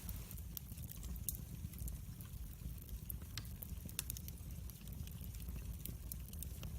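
Wood fire burning in a fireplace, with a steady low rumble and irregular sharp crackles and pops every second or so.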